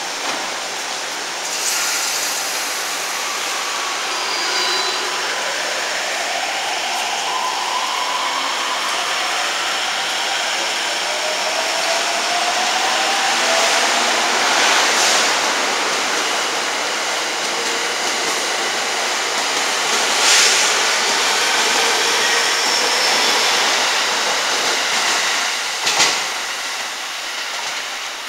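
Sobu Line local electric train pulling out of the platform: the motors give a rising whine as it gathers speed, over steady running noise, with a few sharp clacks of wheels over rail joints.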